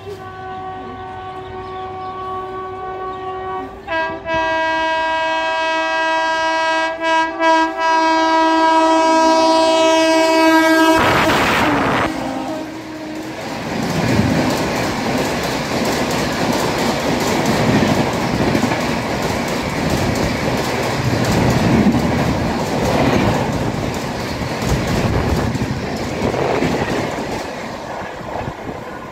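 A train's multi-note horn sounds long and loud for about eleven seconds, growing louder about four seconds in and breaking off briefly a couple of times, then stops abruptly. A passenger train of LHB coaches then rushes past at speed, its wheels clattering over the rail joints until near the end.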